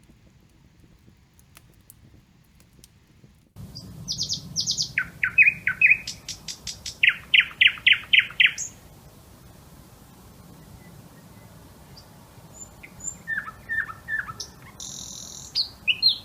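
Birdsong: runs of quick, sharp, repeated notes, some sweeping downward. It starts suddenly about three and a half seconds in, after near-quiet, and fainter runs of notes return near the end.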